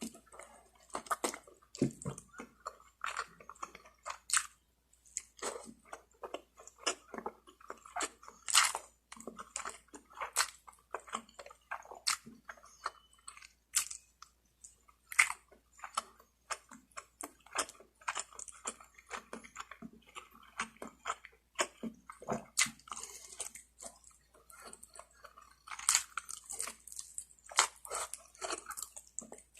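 Close-miked eating of lechon manok (Filipino spit-roasted chicken): a steady run of chewing and biting, with many short sharp crunches and mouth clicks in an irregular rhythm.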